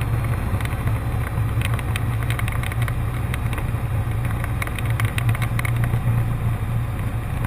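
Cessna 152's four-cylinder Lycoming O-235 engine and propeller droning steadily in flight, with scattered short clicks over it.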